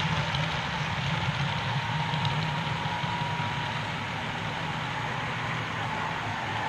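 OO-gauge model train running on the layout track: a steady, engine-like hum with continuous running noise.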